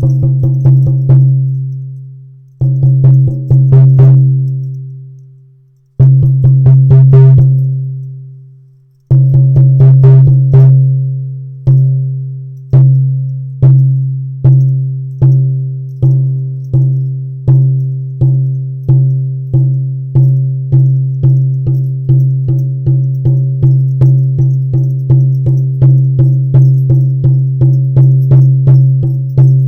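14-inch blacktail deer hide frame drum on a yellow cedar hoop, struck by hand with a deep, ringing boom. Three quick flurries of strokes are each left to ring and die away, then single strokes settle into a steady beat that speeds up from about one a second to about two a second.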